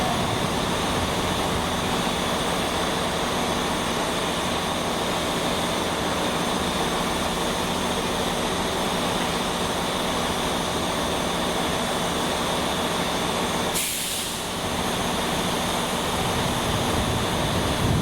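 A train locomotive running steadily with a constant drone and a few held tones. About fourteen seconds in there is a short, sharp hiss, like air being let off.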